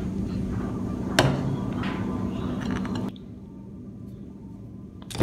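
Metal compressor parts and hand tools being handled, with one sharp metallic knock about a second in and a few lighter scrapes after it; a steady background hiss drops away about three seconds in.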